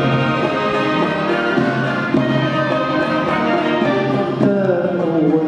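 Symphony orchestra playing the instrumental introduction of a song, many sustained instrument lines sounding together.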